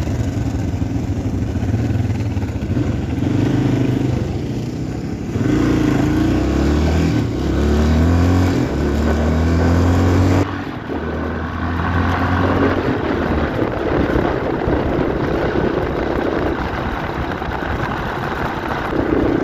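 Yamaha XT350 single-cylinder four-stroke dual-sport engine running on the move. The engine note climbs in steps as it accelerates through the gears, then drops suddenly about ten seconds in.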